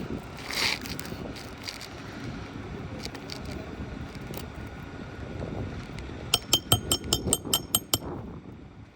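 A hammer rapidly tapping a roofing nail: about a dozen sharp, ringing metallic taps in under two seconds, starting a little after the midpoint, over steady outdoor wind.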